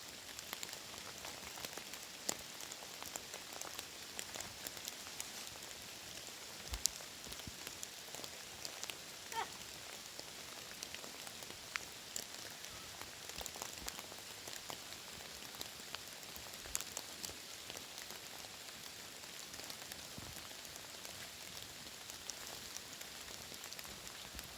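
Rain falling steadily, with scattered louder individual drops and drips.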